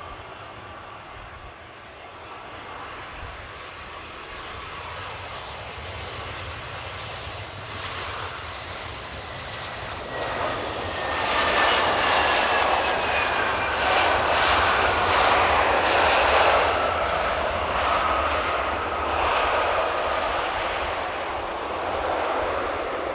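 Airbus A320 jet airliner on landing approach passing overhead: the engine noise swells, is loudest around the middle with whining tones that fall in pitch as it goes by, then fades. A low wind rumble on the microphone runs underneath.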